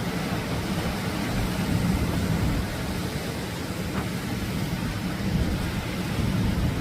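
Atlantic surf washing on the shore, a steady low noise, with wind buffeting the microphone.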